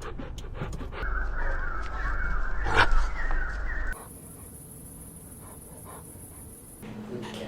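Small puppies panting and squealing: quick panting at first, then about three seconds of high-pitched squeals and whines with one sharp louder yelp near the middle, then quieter breathing.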